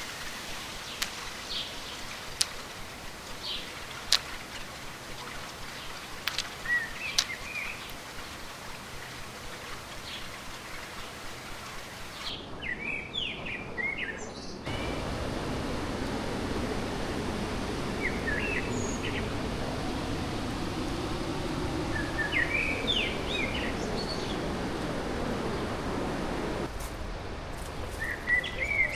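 Fast-flowing stream rushing steadily, with small birds chirping short calls throughout. A few sharp clicks sound in the first several seconds. The water noise jumps louder about halfway in and drops back near the end.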